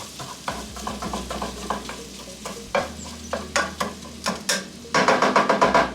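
Taco meat sizzling in a frying pan while a utensil scrapes and taps against the pan, stirring and breaking up the meat, with a quick run of loud scraping strokes about five seconds in.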